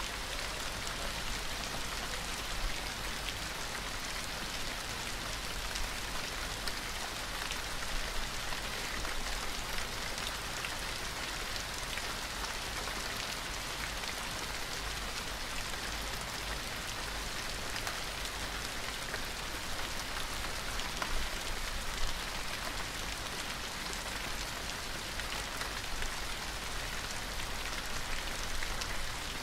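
Steady gentle rain falling on a surface, an even hiss with scattered individual drops ticking through it.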